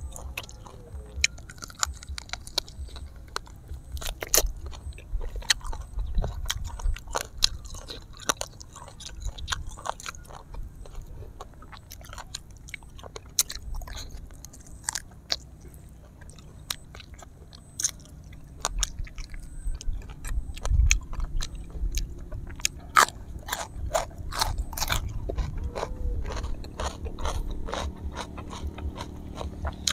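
A person chewing and biting grilled honey duck close to the microphone, with irregular sharp crunches and clicks of crisp skin.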